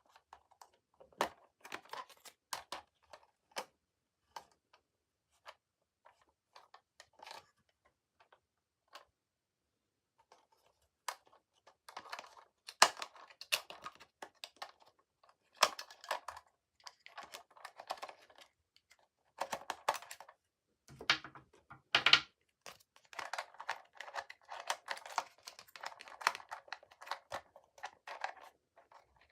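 Toy packaging being handled and opened: scattered sharp clicks, rustles and crinkles of plastic and cardboard, thinning to a near-quiet pause about a third of the way in, then busier handling to the end.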